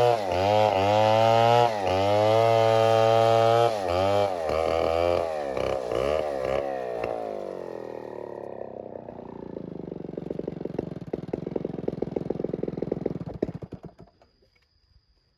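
Two-stroke chainsaw running at high revs, its pitch sagging briefly twice as the chain bogs in the cut, then revved in a few short blips. It drops to a slow, pulsing idle from about 8 s in and is switched off about 14 s in.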